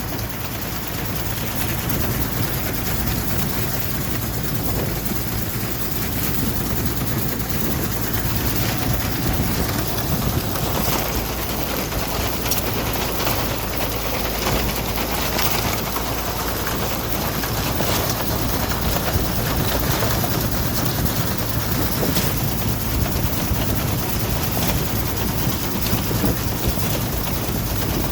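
Vintage tractor engine running steadily while pulling a Massey reaper-binder through standing corn, with frequent light clicks and knocks from the binder's working parts over the engine.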